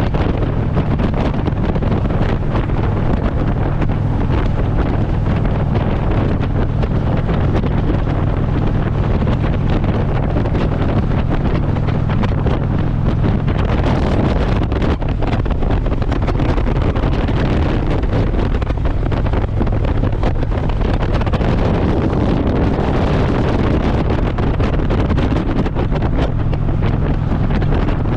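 Wind buffeting the microphone of a Harley-Davidson motorcycle at steady road speed, with the engine's low, even drone underneath.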